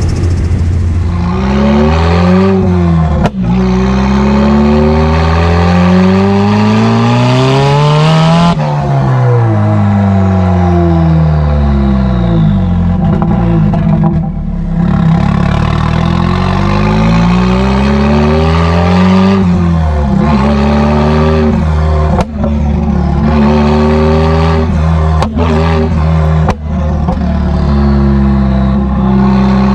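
Straight-piped Nissan S15 Silvia's turbocharged SR20 four-cylinder pulling hard, its exhaust note climbing in pitch for several seconds, then dropping sharply when the throttle is lifted about a third of the way in and falling away. It climbs and falls again later, with a few brief breaks in the sound.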